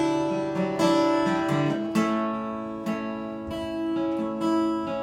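Acoustic guitar strummed, a few chord strokes, each left to ring.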